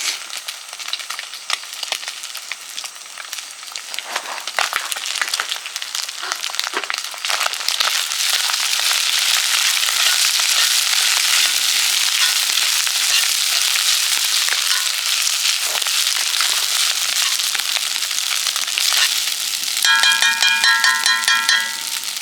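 Food sizzling and crackling in a frying pan over a campfire, getting louder about eight seconds in and staying loud. Near the end a short run of quick repeated musical tones sounds over it.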